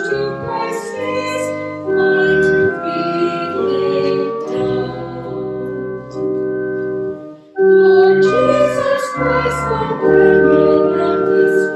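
Hymn sung by voices with organ accompaniment, in held chords over a moving bass line, with a short break between phrases about seven and a half seconds in.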